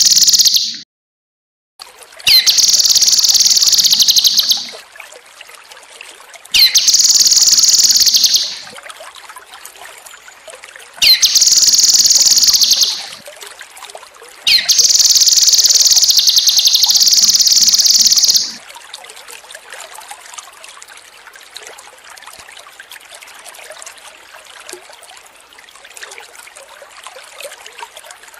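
Cucak kinoi (cucak rante mas) singing in loud bursts of rapid, high chattering notes, each two to four seconds long, with short gaps between. After the last and longest burst, about two thirds in, only trickling water is left.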